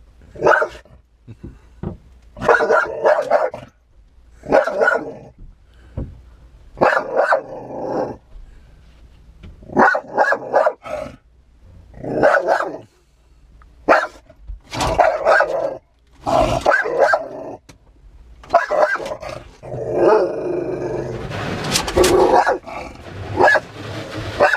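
A dog barking at the truck wash's water spray and brushes in repeated short volleys, one to two seconds apart, with a longer, denser stretch of barking a little after twenty seconds in.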